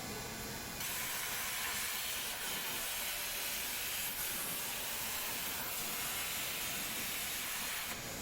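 A steady, high hiss that starts abruptly about a second in and cuts off abruptly near the end.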